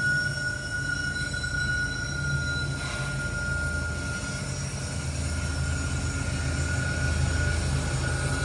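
Loaded coal train rolling slowly uphill: a steady low rumble with a steady high-pitched wheel squeal over it.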